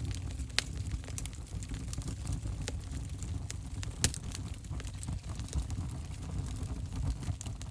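Wood fire burning in a fireplace: a steady low rumble of flames with frequent sharp crackles and pops, two of them louder, about half a second in and about four seconds in.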